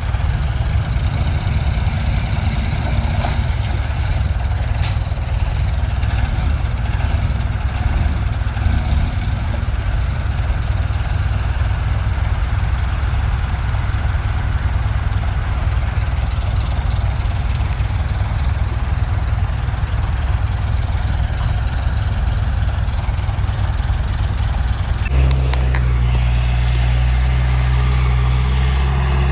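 Heavy diesel engine of earthmoving machinery running with a deep, steady rumble. About 25 seconds in, the engine note changes abruptly to a steadier, more even hum.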